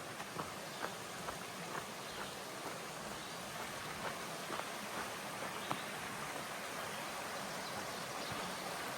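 A small creek running steadily alongside the trail, with soft footsteps in the first couple of seconds.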